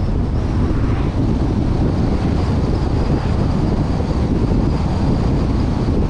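Steady wind rush over the microphone of a camera mounted on a moving vehicle, mixed with the vehicle's road and engine noise while driving.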